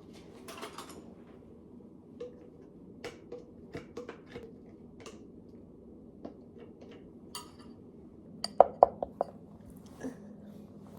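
Kitchenware clinking: a spoon, bowl and dishes knocking and chinking in light, scattered taps, with a quick run of about five louder clinks about eight and a half seconds in, as a bowl of oatmeal is prepared.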